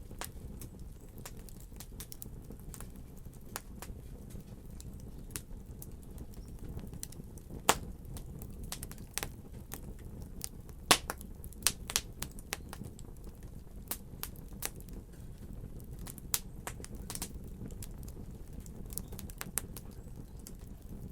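Fire burning in a fireplace: a steady low rush of the flames with irregular sharp crackles and pops, the loudest pops about 8 and 11 seconds in.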